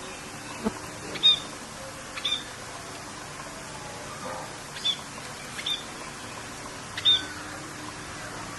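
Birds chirping: about five short, sharp calls spaced a second or more apart, over a steady hiss of rain.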